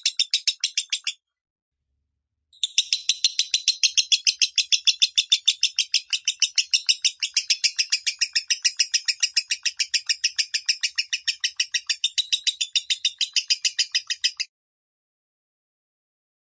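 Lovebird singing its 'minor' voice: a fast, even run of high chirps, about six a second. It breaks off briefly about a second in, then resumes for roughly twelve seconds before stopping abruptly.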